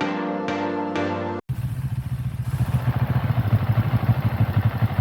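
Soft piano music cuts off abruptly about a second and a half in, and a motorcycle engine takes over, running with a steady low pulsing note.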